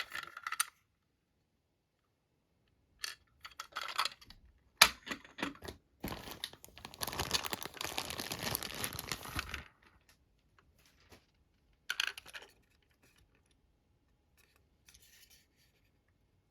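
Plastic packaging and toy-train parts being handled: scattered sharp clicks and short rustles, with about three and a half seconds of continuous rustling or tearing of packaging about six seconds in.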